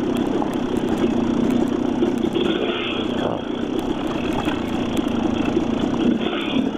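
Dirt bike engine running steadily while riding a rough trail, with a constant rushing noise and faint small clicks.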